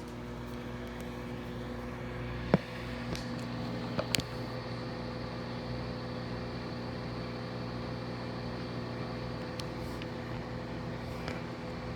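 Microwave oven running, a steady hum with a low buzz from its magnetron and fan, heating a mug of water. A single sharp click about two and a half seconds in, with a few faint ticks a little later.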